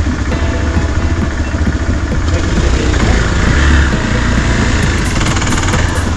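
Motorcycle engine running under way, with steady road noise from a rough mountain track.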